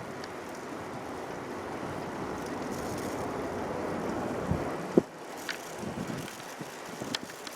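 Steady tyre and wind noise from a bicycle riding on paved trail, swelling slowly over the first few seconds. A single sharp knock comes about five seconds in, then lighter scattered clicks and rattles.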